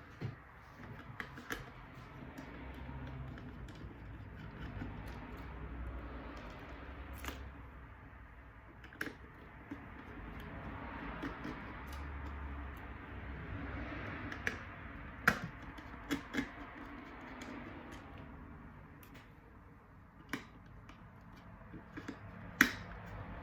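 Scattered sharp clicks and taps of small parts and tools being handled during a drone repair, at irregular intervals over faint room noise.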